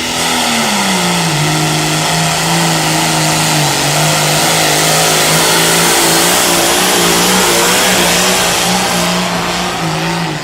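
John Deere pulling tractor's engine running hard under load, its pitch dropping about a second in and then holding lower with a slight wobble as it lugs against the sled.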